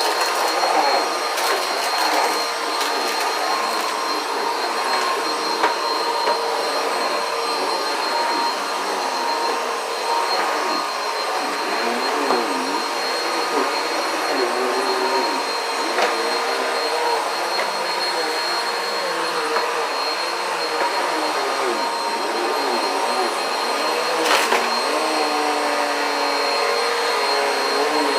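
Vacuum cleaner running steadily, its pitch wavering as the airflow changes, with a few sharp clicks near the start and again near the end.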